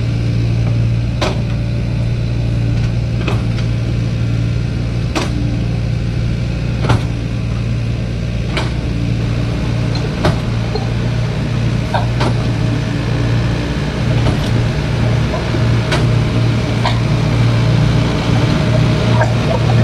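Excavator engine running steadily with a low hum, with sharp knocks or clanks every couple of seconds.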